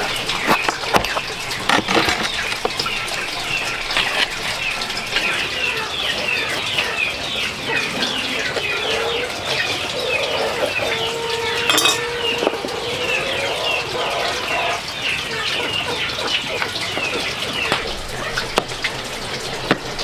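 Small birds chirping: many short, high chirps repeating quickly and continuously, with a few knocks now and then.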